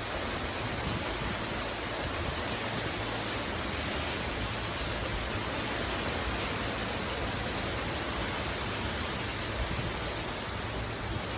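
Steady rain falling without a break, an even hiss with a few faint drop ticks.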